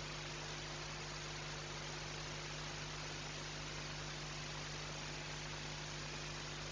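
Steady electrical hiss with a constant low mains-type hum from the recording equipment; no other sound stands out.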